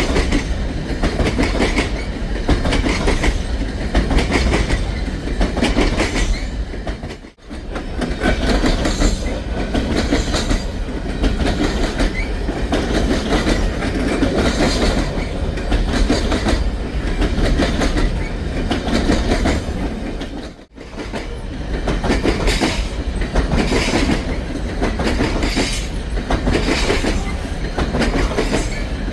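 Empty coal train cars rolling past, their wheels clicking in a steady rhythm over the rail joints. The sound drops out twice briefly.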